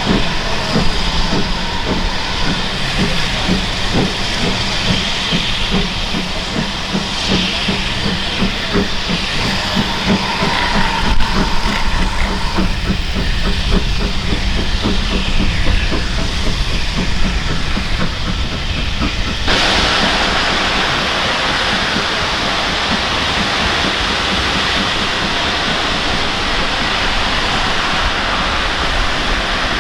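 Steam train running with steam hissing over a dense, uneven clatter. About two-thirds of the way through, the sound switches abruptly to a steady, even hiss.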